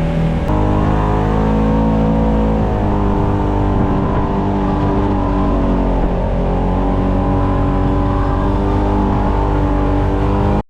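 An off-road vehicle's engine running, its pitch rising and falling slowly as the engine speed changes.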